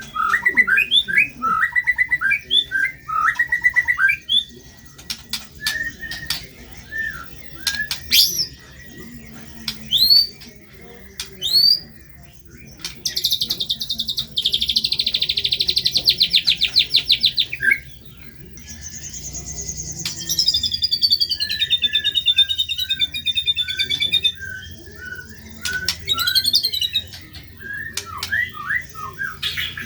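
Songbirds singing a varied, busy song of quick chirps and sharp rising whistles. In the middle comes a dense, fast buzzy rattle lasting about five seconds, followed by a trill that falls in pitch over a run of short chirps.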